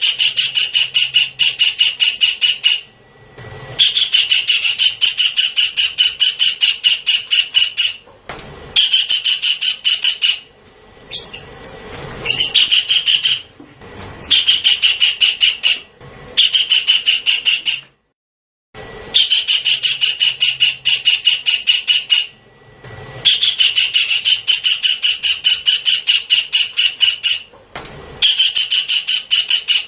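Javan kingfisher calling: long, fast runs of sharp, evenly repeated notes, given in about nine bouts with short breaks between them.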